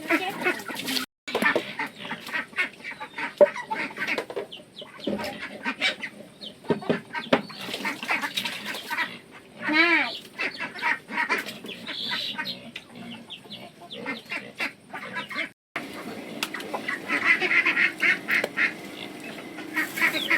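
Farm ducks quacking and calling, mixed with scattered clicks and knocks. The sound cuts out abruptly for a moment twice.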